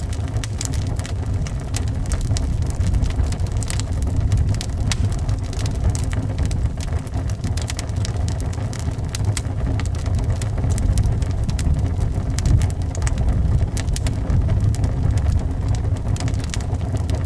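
Wood fire crackling, with frequent sharp pops and snaps, over a steady low rumble of wind.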